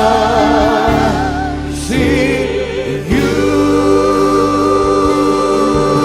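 Church worship music: voices singing long held notes with vibrato over an instrumental backing. The harmony changes about two seconds in and again a second later.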